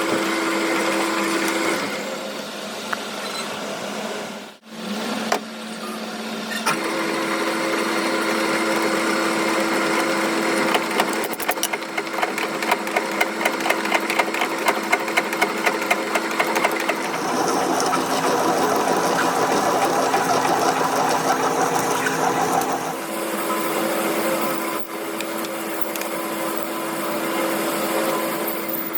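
Electric power tools running with a steady motor hum whose pitch changes between shots. Near the middle comes a run of regular ticks, about three a second.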